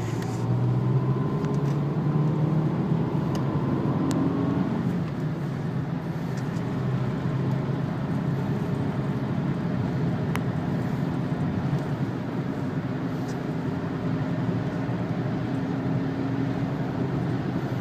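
Renault Laguna's 2-litre turbo diesel heard from inside the cabin, revving up through the first few seconds as the car accelerates, then running steadily under a constant wash of road noise from the wet track.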